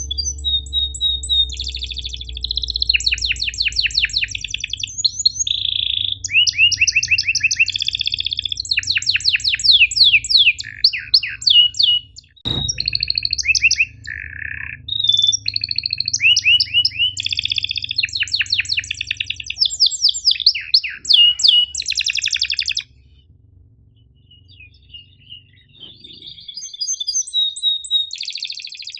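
Domestic canary singing long runs of rapid trills and chirp-and-roll phrases, with a short, softer lull about three-quarters of the way through. A single sharp click near the middle, over a steady low hum.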